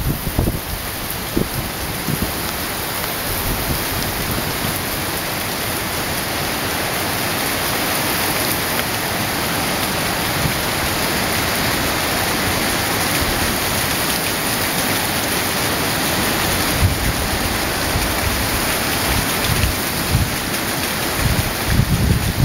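Hurricane rain pouring in a steady, dense hiss, with the storm's wind gusting against the microphone near the end.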